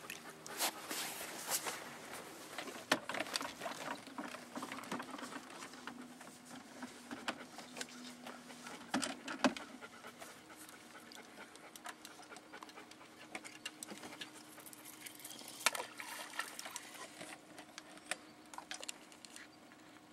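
Faint steady hum of an electric trolling motor running on low, with scattered clicks and knocks from rod and reel handling.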